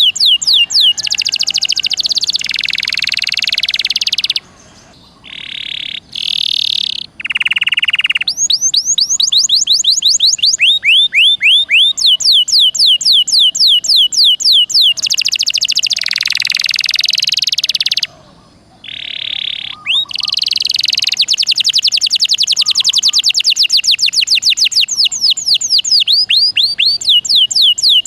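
Domestic canary singing a long, loud, vigorous song: rapid trills of downward-sweeping notes alternating with buzzy rolls and a few short held notes, broken by brief pauses about four and eighteen seconds in.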